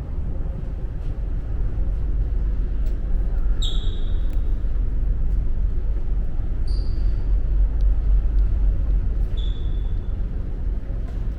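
Steady low rumble of a car ferry under way. Three short, high-pitched tones sound about three seconds apart.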